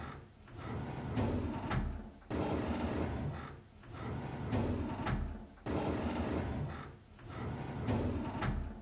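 A drawer sliding open over and over, each time a rumbling slide with a knock, repeating about every three seconds.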